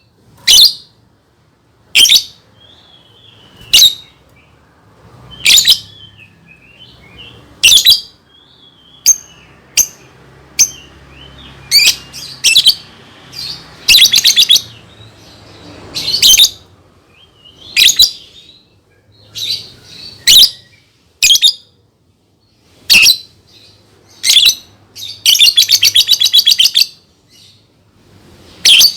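Lovebird calling: loud, shrill, sharp chirps about every one to two seconds, with softer gliding twitters between them and a fast rattling trill near the end.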